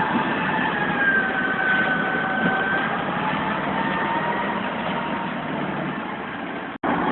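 Diesel engine of a tracked armoured vehicle running under load, with a steady high whine that dips slightly in pitch and then levels off. The sound drops out abruptly for an instant near the end.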